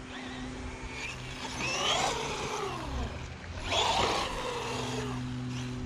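Bezgar HM124 1/12-scale brushless RC car's electric motor whining up and down in pitch as it accelerates and slows, in two bursts about two seconds apart, over a steady low hum.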